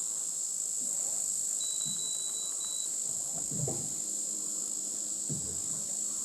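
A steady, high-pitched chorus of insects calling without a break.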